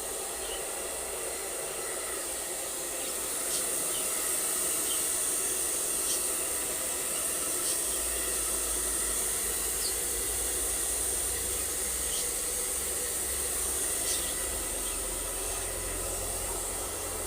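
Blow dryer running steadily, a continuous hiss of blown air, drying a husky's coat after a bath. A few faint short high ticks sound now and then over it.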